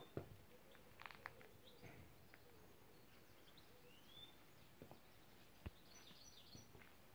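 Faint birds chirping, a short rising note every few seconds, with a few soft taps and clicks, the sharpest just after the start and another late on.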